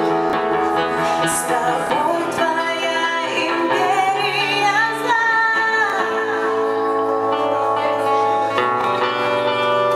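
A live band playing a song, with guitar and sustained chords, and a singing voice holding long wavering notes through the middle.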